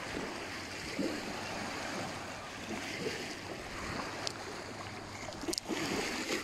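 Water lapping and wind blowing steadily, with a couple of short clicks near the end.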